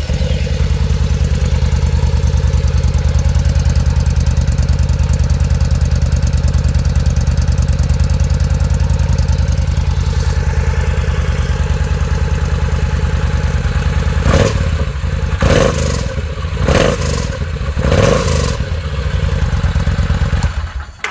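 Yamaha V Star 950's air-cooled V-twin idling steadily through its stock exhaust, just after starting. From about 14 seconds in it is blipped four times with the throttle, and it is switched off at the very end.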